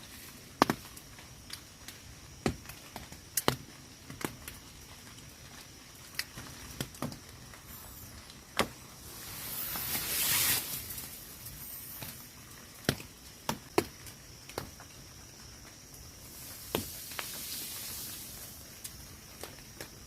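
Scattered water drops tapping irregularly, roughly once a second, over faint rain hiss that swells twice, about halfway through and again near the end.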